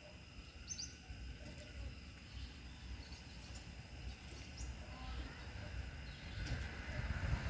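Outdoor ambience: wind rumbling on the microphone under a faint steady insect drone, with a few short bird chirps. A rushing noise swells near the end.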